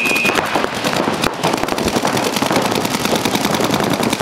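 Several paintball markers firing rapid, continuous strings of shots, overlapping into a dense rattle. A high electronic tone cuts off in the first moment.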